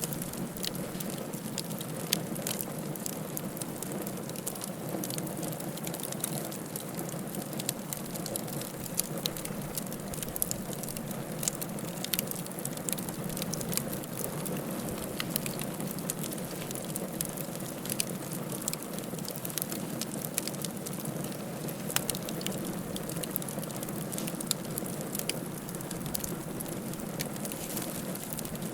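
Wood fire crackling in a fireplace: frequent sharp pops and snaps over a steady low rush of flame.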